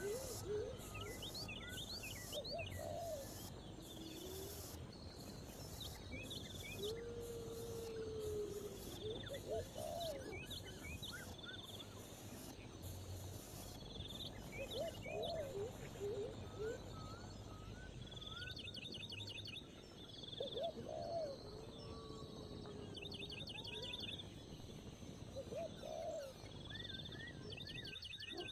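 Several birds calling: short low calls every two to three seconds with a longer low call among them, scattered high chirps, and a few quick high trills near the end, over a steady high insect buzz.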